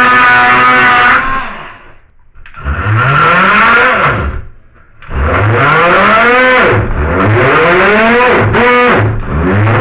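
Handheld power tool's motor trimming material flush, run in repeated short bursts: each time it spins up in pitch and winds back down, about five times.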